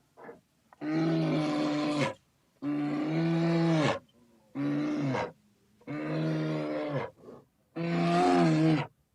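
A large animal calling over and over: five deep calls of steady pitch, each about a second long, with short pauses between them.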